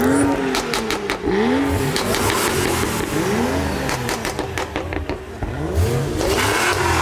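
A car engine is revved repeatedly, its pitch climbing and dropping back about once a second, with sharp cracks scattered between the revs.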